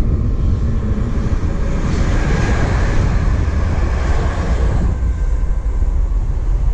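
Class 350 electric multiple unit passing at speed on the main line. The rush of its wheels on the rails builds about a second and a half in, peaks around three seconds and fades away by five seconds, over a steady low rumble.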